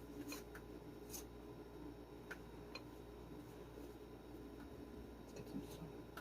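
A few faint, scattered light clicks and taps, irregularly spaced, over a low steady hum.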